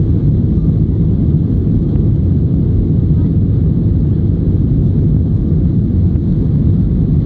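Steady low rumble of a Boeing 737-900's CFM56 jet engines and the rushing air, heard from inside the passenger cabin.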